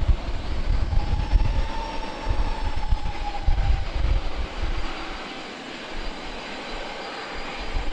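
Engine noise of a landing airliner that has just passed low overhead: a whine that slides slightly downward in pitch and fades over the first five seconds, over an uneven low rumble.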